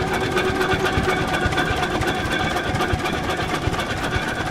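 Antique gas engine running steadily with a rapid, even clatter.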